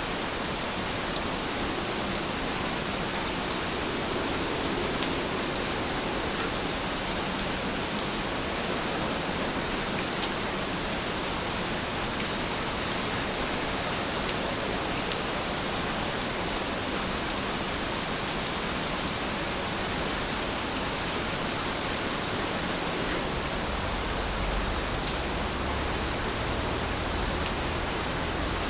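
Steady rainfall: an even hiss of falling rain with scattered faint drop ticks. A low rumble comes in underneath about two-thirds of the way through.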